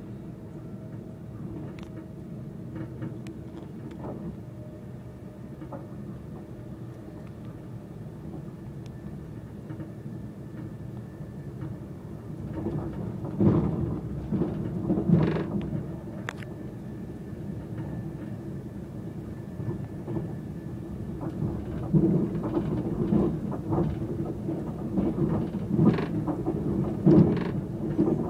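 Passenger train running, heard from inside the carriage: a steady low rumble with a constant hum. The noise gets louder about halfway through and again near the end, with clunks and rattles.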